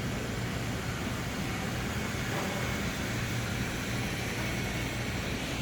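Steady low rumble with an even hiss over it, unchanging throughout, with no distinct events.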